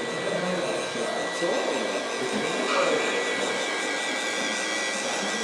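Small electric motor of a radio-controlled scale model machine whining steadily, with a high steady whistle over a motor hiss.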